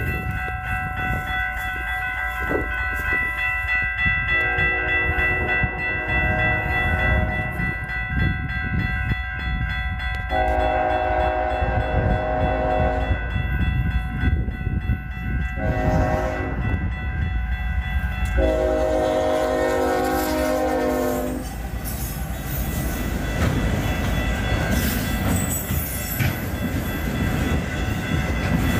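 Freight locomotive horn sounding the grade-crossing signal (two long blasts, a short one and a long one) over steady crossing bells ringing. After the last blast the train rumbles past over the rails.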